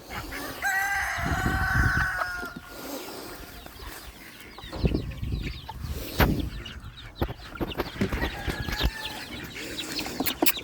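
Chickens clucking, with one long rooster crow starting about half a second in, followed by scattered short calls and knocks.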